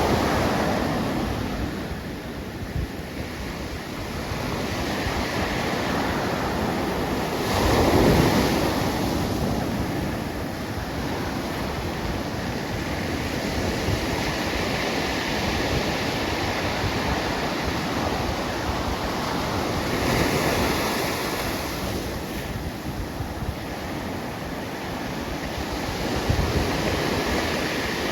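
Pacific Ocean surf: waves breaking and washing in as a steady rush, swelling about 8 seconds in (the loudest), again about 20 seconds in and near the end, with wind buffeting the microphone.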